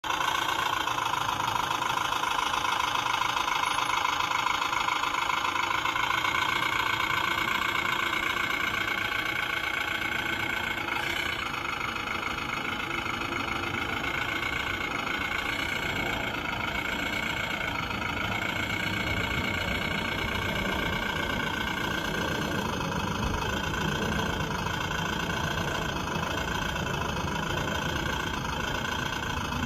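Hydraulic RC construction models running: a steady mechanical whine with engine-like running underneath. The whine eases and the lower running grows about ten seconds in.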